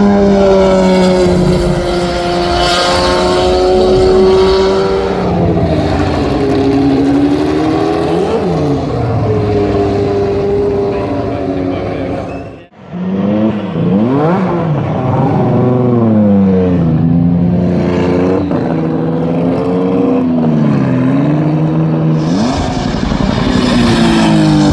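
Competition car engines at full throttle, rising in pitch and dropping back at each gear change. About halfway through there is a sudden cut to a second car, whose engine revs up and down in quick sweeps before pulling through its gears.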